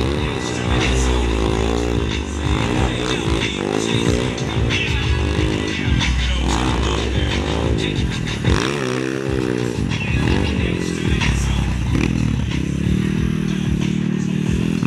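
Motorcycle engines revving up and falling back again and again, the pitch rising and dropping every second or two as the bikes accelerate and slow.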